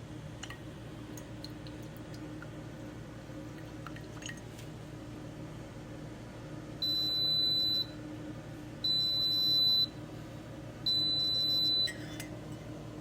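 SIFENE single-serve pod coffee maker's beeper sounding three long, high-pitched beeps, about one second each and two seconds apart, signalling the end of brewing. A steady low hum runs underneath.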